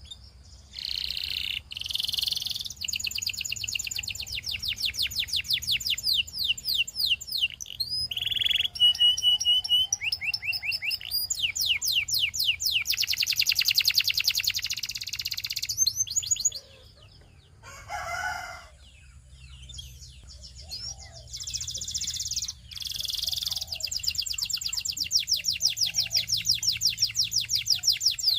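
Canary singing: long, fast trills and rolls of rapidly repeated high notes, in tours of a few seconds each. A quieter pause with a few scattered notes falls a little past the middle.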